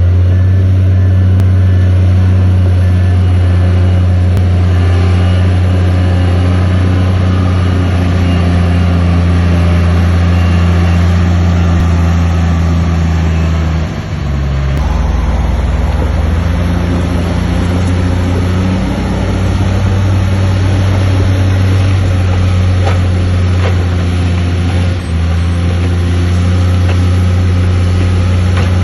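Heavy diesel engine of a Shantui DH7 C2 crawler bulldozer running hard, a loud steady low drone. It dips and shifts pitch briefly about halfway through and again near the end, as the load changes.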